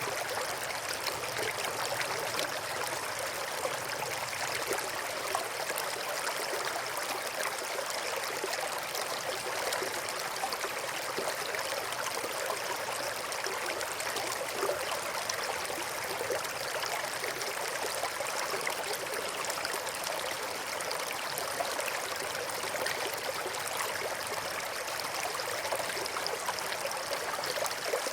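River water flowing over rocks: a steady rushing and burbling with fine splashing detail throughout.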